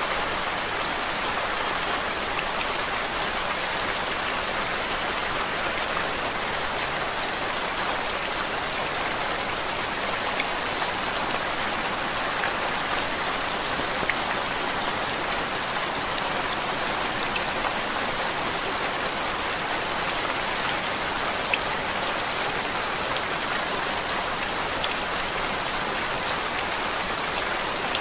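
Steady rain used as background noise: an even hiss of rainfall with faint, scattered ticks of individual drops.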